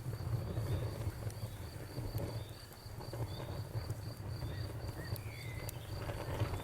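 Crickets chirping in a steady, regular pulse over a crackling bonfire, with occasional sharp pops from the fire and a low rumble underneath.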